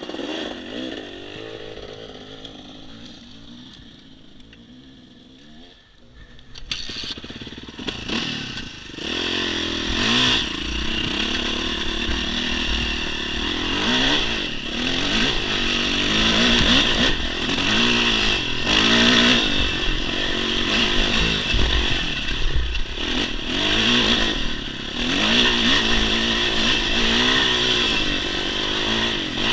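Dirt bike engine ticking over quietly, then revving up and pulling away about seven seconds in. Once under way its revs rise and fall over and over as it climbs a rocky trail.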